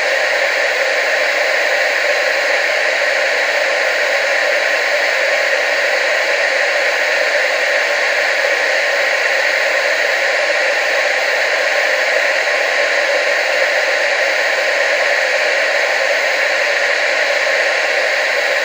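Television static: a steady, even hiss of white noise with little bass, unchanging throughout.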